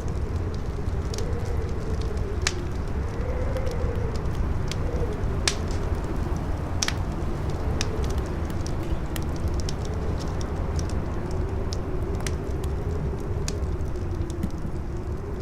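Howling wind, a low rumble with a moaning tone that rises and falls every couple of seconds, over a crackling fire with irregular sharp pops and snaps.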